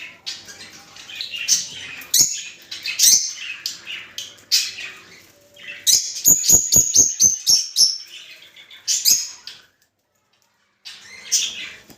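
Lovebirds (rosy-faced and Fischer's) chattering with sharp, shrill chirps and squeaks, with a fast run of clicking chirps around the middle. The calls are presented as breeding calls. The sound cuts out for about a second near the end, then resumes.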